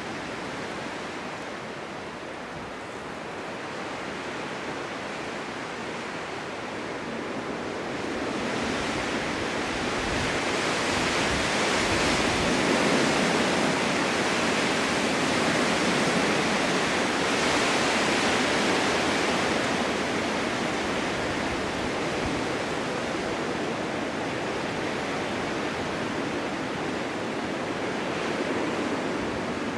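Winter wind blowing in a snowstorm: a steady rushing that gusts up about a third of the way in and eases off again after a few seconds.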